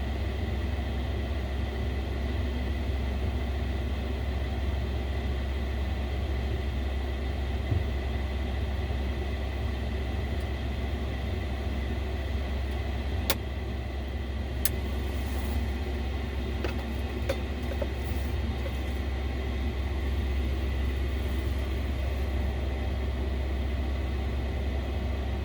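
Diesel air heater running steadily at high output while warming up: a low rumble from the burner and combustion fan, with a thin steady whine and a couple of sharp clicks around the middle.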